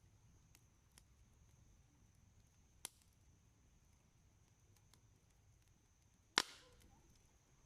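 Wood campfire crackling sparsely: faint ticks, a sharp pop about three seconds in and a much louder pop near the end. A faint steady high whine runs underneath.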